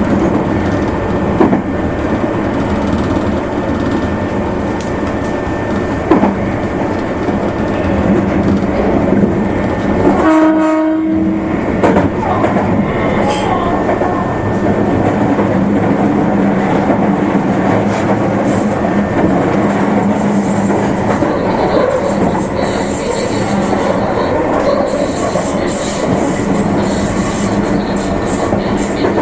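Electric limited express train running on the Meitetsu Nagoya Main Line, heard from inside the car: a steady rumble of wheels on rail with a low steady hum. About ten seconds in, a short horn blast sounds for about a second.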